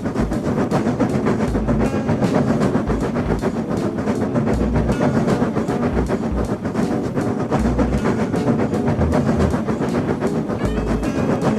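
Animated train sound effect: a train running along the track, with a steady, rapid clicking of wheels over the rails throughout.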